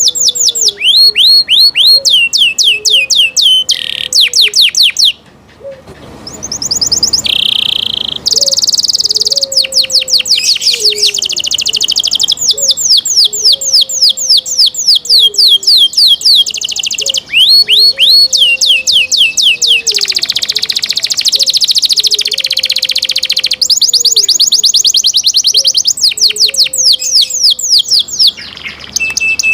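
Domestic canary singing a long, continuous song of fast trills and rolls, each phrase a rapid run of high falling notes repeated many times before switching to the next, with a short pause about five seconds in.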